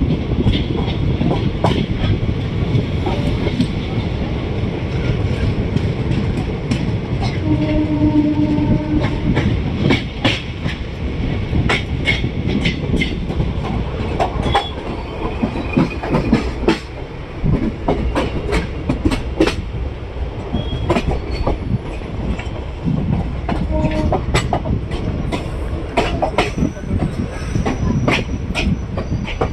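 Passenger coach of the Maurya Express running at speed: a steady low rumble with wheels clacking irregularly over rail joints. A short steady horn note sounds about eight seconds in, and a fainter one comes around twenty-four seconds.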